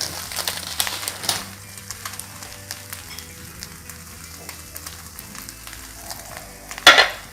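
Egg and rice paper frying in a little oil in a pan: a steady, gentle sizzle with scattered light ticks. Near the end comes one loud, brief clatter.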